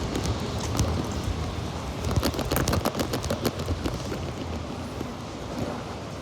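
Rain falling, with a cluster of sharp close taps about two to three and a half seconds in, over a steady low rumble.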